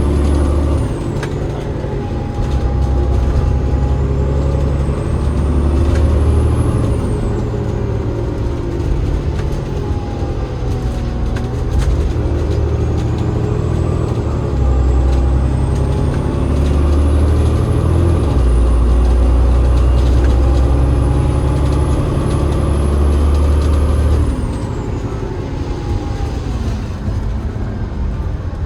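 Drivetrain of a Cummins ISL8.9-engined Enviro500 MMC double-decker bus with a ZF EcoLife six-speed automatic gearbox, heard on board while driving: a heavy diesel drone under a thin high whine. The whine rises slowly as the bus gathers speed and falls away several times, with a lower tone rising and falling alongside it.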